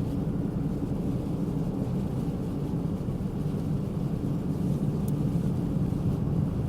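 Steady engine and road rumble heard inside a moving vehicle's cabin while it drives on a snowy road.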